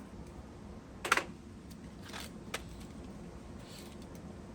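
Small parts being handled and set down: a sharp knock about a second in, then a few lighter clicks.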